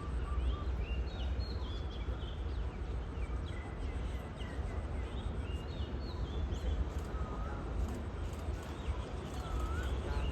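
Birds chirping and calling in short, repeated phrases over a low, steady rumble.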